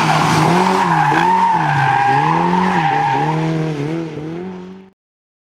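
Car engine revving up and down repeatedly under hard driving, with tyres squealing over it; the sound drops and then cuts off about five seconds in.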